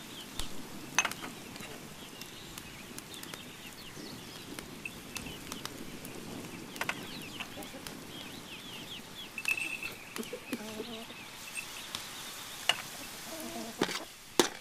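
Chickens clucking now and then over steady small-bird chirping, with scattered sharp clicks and knocks.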